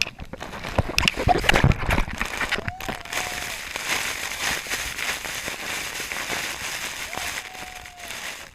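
Splashing, rushing water. It opens with a cluster of knocks and crackles in the first couple of seconds, then settles into an even rush. Two short, faint calls sound over it, one about three seconds in and one near the end.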